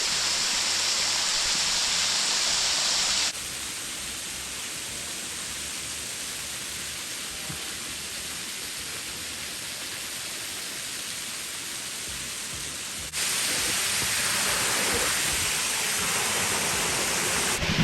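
Waterfall rushing steadily. The level drops suddenly about three seconds in and comes back up just as suddenly near thirteen seconds.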